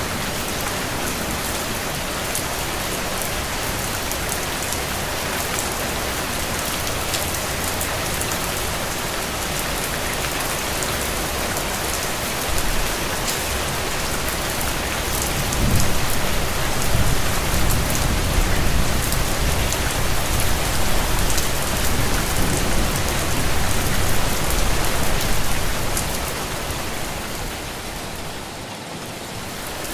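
Steady rain falling, an even hiss with small drop ticks. About halfway through a deeper low rumble swells under it and fades away near the end.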